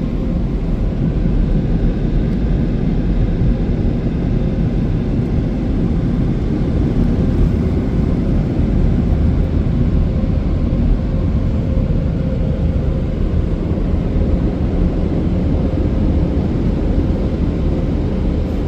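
Car wash dryer blowers running steadily, a loud even rush of air with a faint steady hum, heard from inside the car's cabin.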